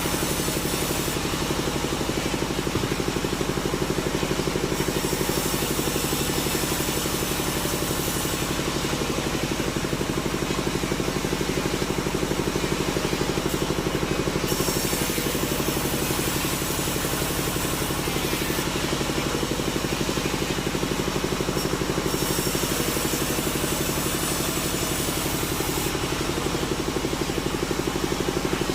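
Sawmill machinery running steadily: a constant engine drone, with a higher hiss that swells and fades every few seconds.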